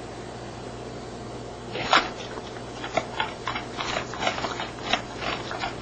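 A dog making a run of short, irregular clicks and crunches, two to three a second, starting about two seconds in.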